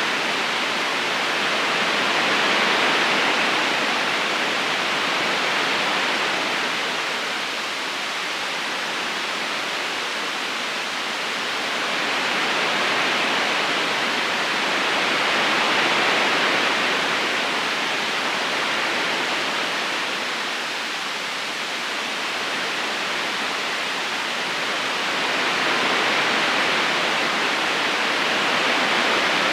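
Steady rushing of a flowing river current, an even wash of water noise that swells and eases slowly every ten seconds or so.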